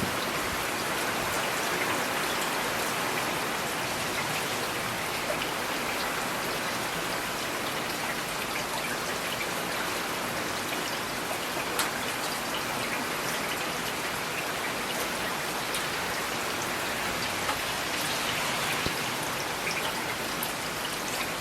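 Steady rain falling, with scattered single drops ticking sharply as they hit a surface.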